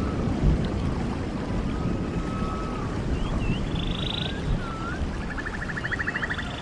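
Rushing stream water with birds calling over it: short curving whistled notes and, near the middle and again near the end, rapid evenly pulsed trills.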